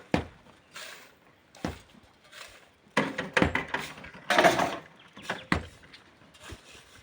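Hand tools striking and scraping stone and sand: irregular sharp knocks, several a few seconds apart, with a busier stretch of knocks and a longer noisy rush about four and a half seconds in.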